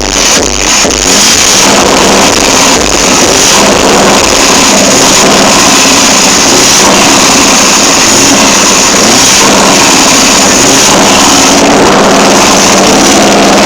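Scania R730's V8 diesel engine running loudly at a fairly steady speed.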